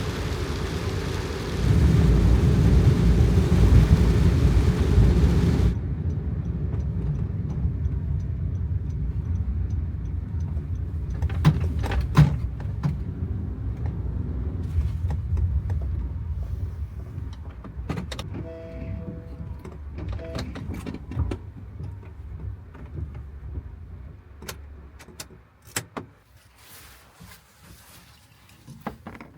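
Heavy rain and wind that cut off abruptly after about six seconds to quieter, muffled rain with scattered clicks and knocks and a brief tone a little past the middle, the noise slowly fading toward the end.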